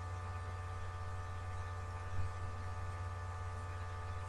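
Steady electrical mains hum with a faint, even buzz of higher tones over it, and one soft thud about two seconds in.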